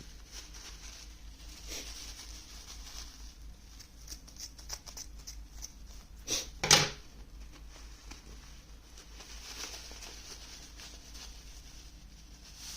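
Hands working open the packaging of a bamboo charcoal bag: faint rustling, scratching and small clicks, with a brief louder crackle a little past halfway through.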